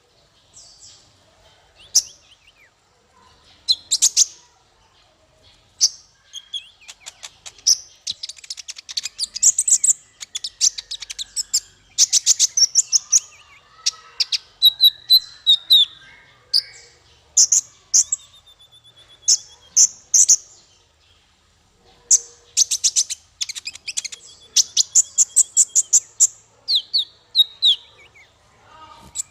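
Small songbird singing: bursts of rapid, very high, sharp chirps and fast trills with short pauses between, sparse at first and busier from about six seconds in.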